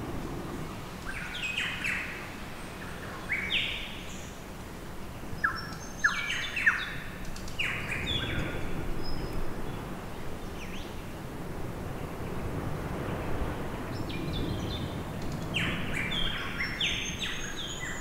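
Birds calling in three bursts of quick, sharp chirps: about a second in, around the middle, and near the end. Under them runs a steady low outdoor background noise.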